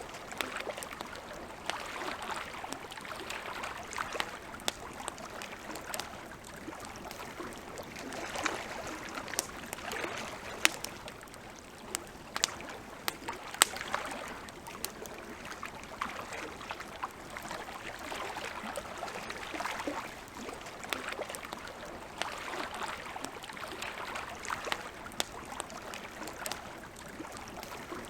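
Campfire crackling, with scattered sharp pops and a few loud snaps, over lake water lapping in slow swells.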